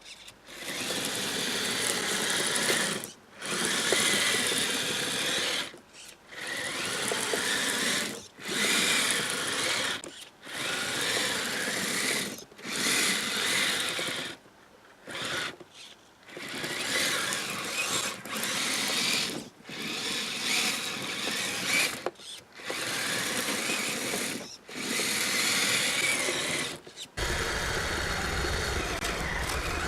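Kyosho Blizzard SR RC snow vehicle's electric motor and track drive whining in repeated bursts of throttle, each a second or two long with short pauses between. Near the end it runs steadily and a low rumble joins it.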